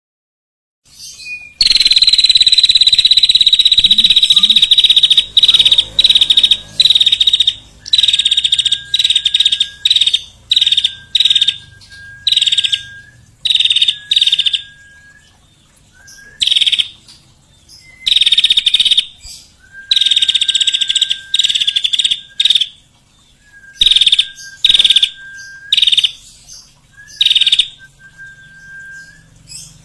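A songbird giving loud, rapid, high trills in repeated bursts. The first lasts about four seconds and the rest are shorter. A lower steady note follows many of them.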